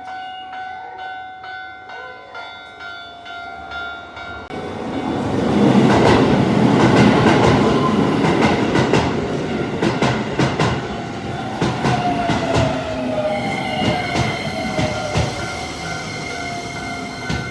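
Japanese level crossing alarm ringing with its repeating electronic bell. About four and a half seconds in, a Keisei train runs over the crossing with loud rail noise and the clack of wheels over rail joints, and a whine from the train falls in pitch while the crossing alarm keeps ringing underneath.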